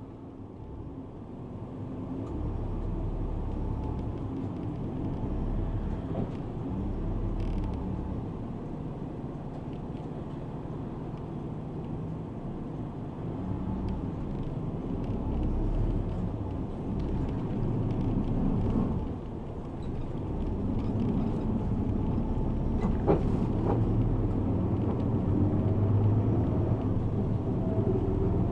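Inside a moving city route bus: engine and road rumble, with creaks and rattles from the cabin. The rumble grows louder over the first few seconds, with a brief dip about two-thirds of the way through and a few small clicks soon after.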